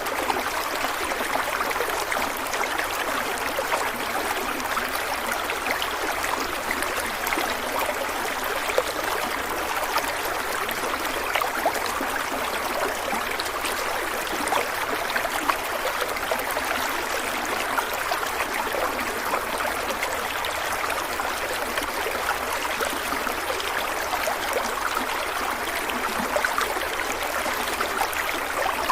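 A small stream flowing steadily over stones, with a continuous rush of water and many small splashes and trickles.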